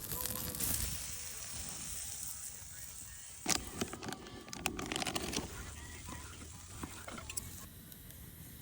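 Food sizzling over a campfire: a steady hiss with scattered crackles, and a few sharp clicks and knocks about three and a half to five seconds in.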